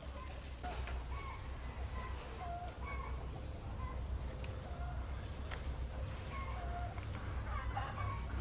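Countryside ambience: a steady high insect trill, likely crickets, with short bird calls repeating every second or so and a low rumble underneath.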